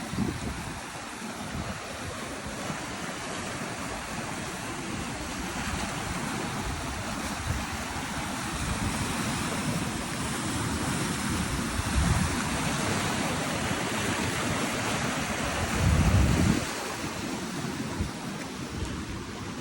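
Ocean surf washing steadily, with wind on the microphone. Two louder low surges come about twelve and sixteen seconds in.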